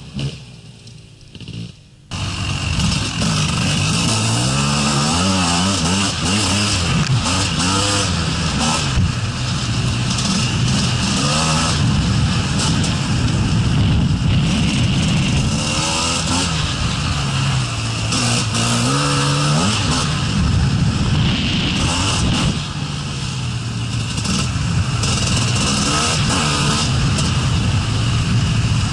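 Gas Gas 250 EC enduro motorcycle's two-stroke engine. It is faint for the first two seconds, then loud and close up from on the bike, revving up and down over and over as it is ridden along a rough trail.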